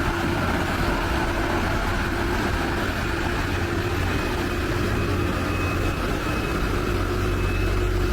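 Heavy trucks' diesel engines running loud and steady under load as a tow tractor pulls the overloaded heavy-haul rig up the grade, with a constant low rumble and a steady hum.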